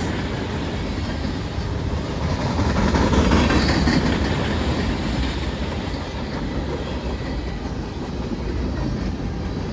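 Freight cars of a long CSX mixed freight train rolling past close by, with a steady rumble of steel wheels on the rails and a clatter over the rail joints.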